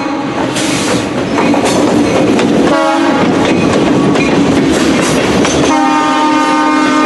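Freight train passing close: the diesel locomotive's horn sounds in long blasts, with a short break about three seconds in, over the clatter of boxcar wheels on the rails.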